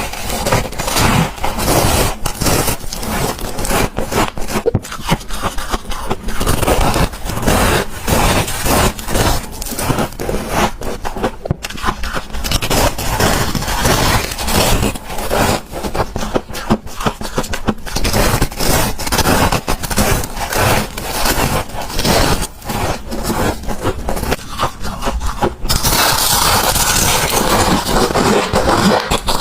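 Close-miked crunching and chewing of chunks of freezer frost: many crisp, irregular crunches in quick succession. Near the end the crunches give way to a steadier, denser rasping noise.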